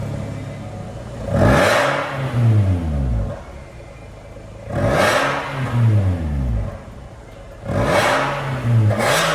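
Toyota Corolla Cross 1.8's four-cylinder engine revved through an MS-R valved cat-back exhaust, four quick blips that rise and fall back to idle, about every three seconds.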